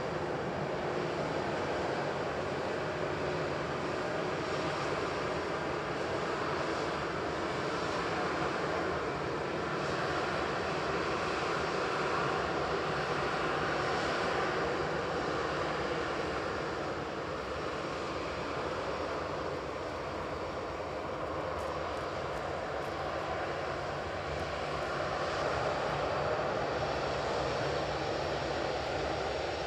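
Airbus A320-211's CFM56-5A1 jet engines running, a steady rushing engine noise with no marked rise or fall.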